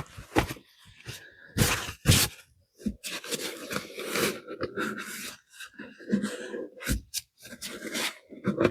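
Irregular handling noises on a work table: clicks, knocks and short scrapes of plastic cups and tools being picked up and set down, with a few louder knocks.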